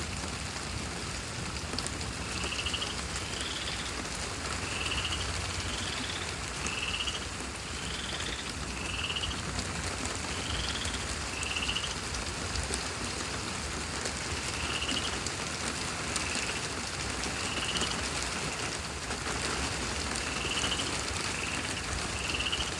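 Heavy rain falling steadily, with short high peeps repeating every second or two over it.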